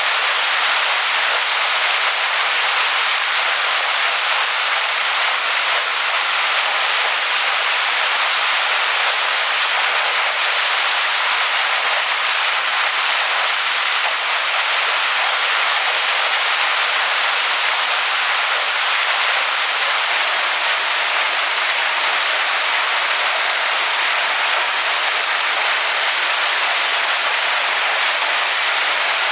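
Waterfall splashing onto rocks, a steady, unbroken hiss of falling water without change.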